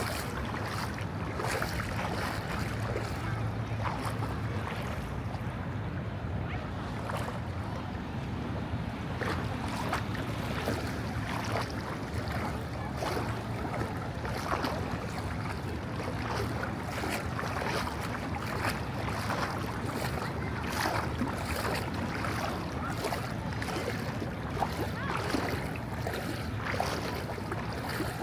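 Steady wash of ocean surf with wind on the microphone, with many small sharp knocks or splashes through it.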